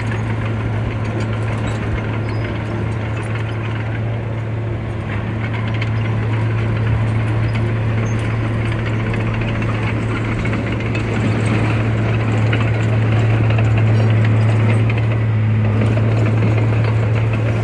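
Heavy diesel earthmoving machinery running steadily, a constant low engine drone with rattling and clanking over it, growing a little louder partway through.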